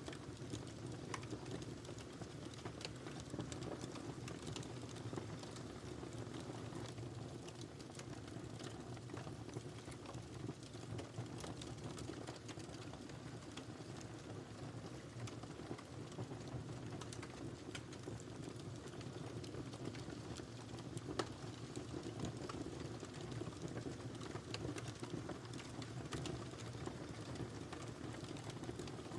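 Firewood burning in a fireplace: a steady low rush of flames with frequent small, sharp crackles and pops scattered irregularly throughout.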